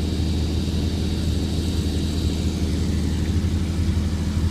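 Porsche Cayman GTS's 3.4-litre flat-six engine idling steadily, a low even hum.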